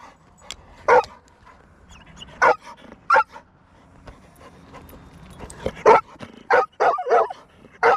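A dog barking repeatedly in short, sharp single barks, about eight in all, coming closer together near the end. It keeps on despite being told to shut up.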